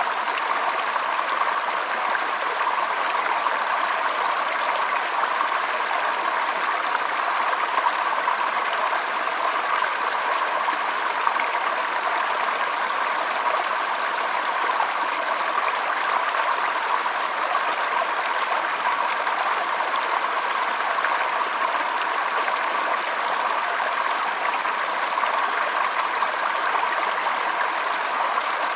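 Shallow stream flowing and trickling steadily: an even, continuous rush of water with no pauses or changes.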